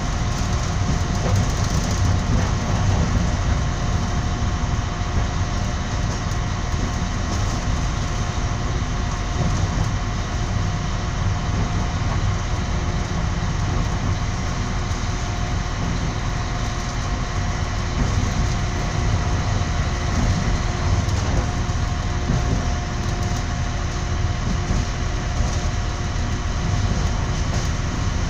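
Moving passenger train heard from inside the carriage: a steady low running rumble with a few faint steady tones above it.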